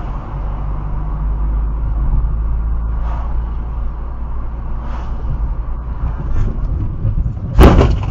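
Steady low rumble of a car driving, as picked up by a dashcam, then near the end a short, loud crash impact, the loudest sound, which stops abruptly.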